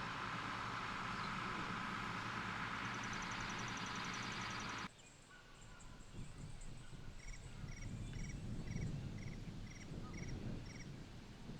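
A steady rushing noise that cuts off abruptly about five seconds in. It gives way to quieter outdoor ambience: a low, uneven rumble and a high chirp repeating about twice a second.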